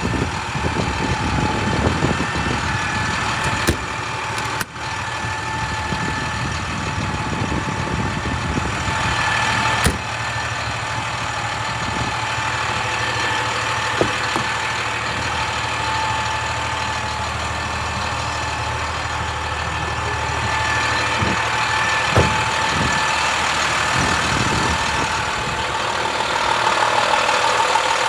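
A MaxxForce DT diesel truck engine running steadily at idle, with a thin steady whine over the engine note.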